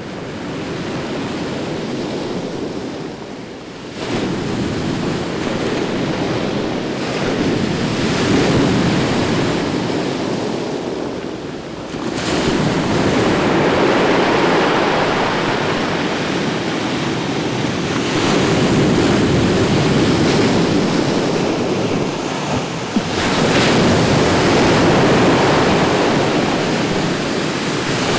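Atlantic surf breaking on a beach: a continuous wash of water, with a fresh wave surging in every five to eight seconds.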